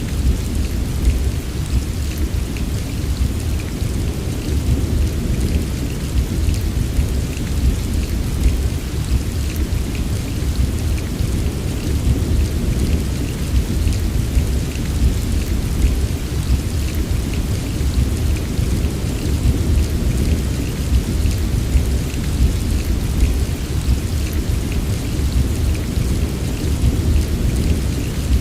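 Steady heavy rain with a deep, continuous rumble beneath it and a fine patter of drops on top. The sound is even, with no separate claps of thunder.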